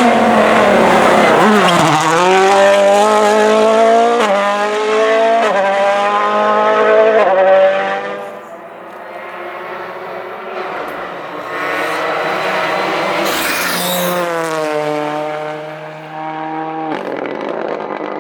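World Rally Car engine, a 1.6-litre turbocharged four-cylinder, at full throttle: its pitch climbs and drops back at each of several quick upshifts as the car accelerates. After about eight seconds it fades. It then climbs through the gears again and stops abruptly near the end.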